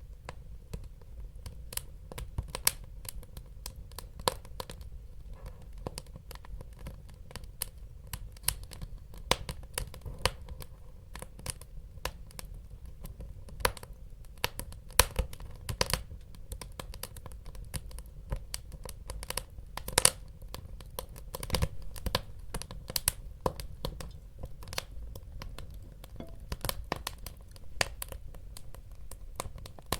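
Wood fire burning in a fireplace: a steady stream of sharp, irregular crackles and pops over a low rumble, with a couple of louder pops around the middle.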